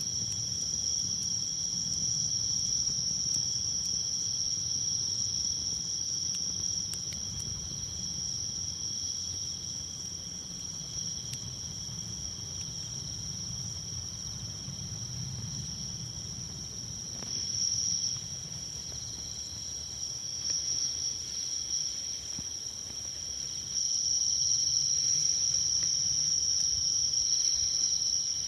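Night insects such as crickets singing in a continuous high trill, in two steady pitches that swell a little louder near the end. Under it there is a low rumble, with a few faint snaps from a campfire.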